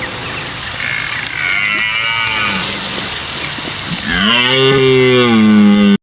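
Low, lowing calls of a large hoofed animal, given as the reindeer's call. Two softer calls come about one and two seconds in. A longer, louder call starts about four seconds in and cuts off suddenly at the end.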